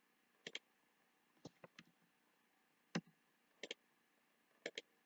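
Computer mouse buttons clicking: a handful of short, sharp clicks, several in quick pairs, spread through a near-silent pause.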